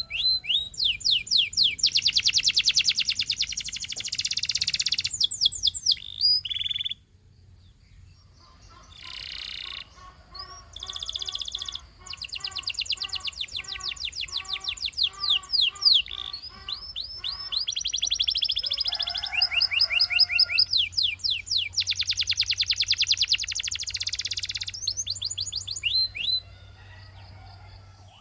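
Canary singing a long song of fast trills and rolls, with quick rising and falling whistled sweeps, broken by a short pause about seven seconds in.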